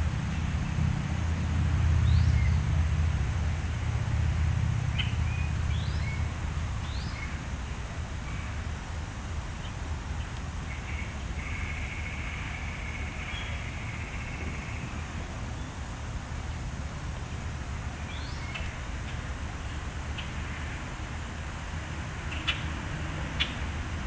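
Small songbirds giving short, scattered high chirps, with a buzzy trill for a few seconds about halfway through. A low rumble fades away over the first several seconds, and two sharp clicks come near the end.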